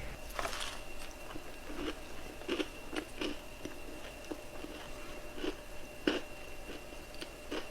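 A person chewing a Crumbl cookie close to the microphone: irregular short crunchy, wet mouth clicks, a few a second, the loudest about six seconds in.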